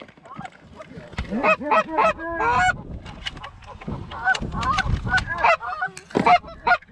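Canada goose honking and clucking: many short calls in quick succession as a goose comes in to the decoys.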